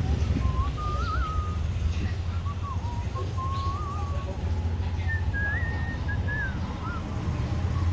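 Someone whistling a wandering, tuneless melody in short phrases, over a steady low rumble.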